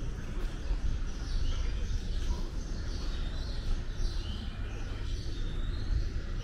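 Birds chirping: many short, quick calls, over a low steady rumble of outdoor city ambience.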